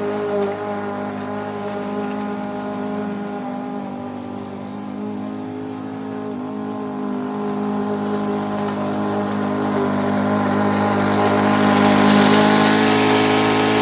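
Yardmax 170cc single-cylinder gas push lawn mower engine running at a steady speed while mowing, growing louder near the end.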